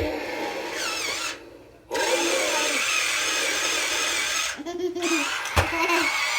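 Battery-powered Blaze Super Stunt Truck toy revving, its small electric motor whirring in two stretches with a short pause between them. A sharp knock comes near the end.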